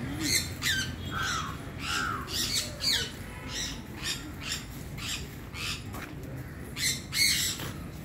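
Caged birds in a zoo aviary squawking: a string of many short, harsh calls, with a few curved, swooping calls about one and two seconds in and bursts of calling around three and seven seconds in.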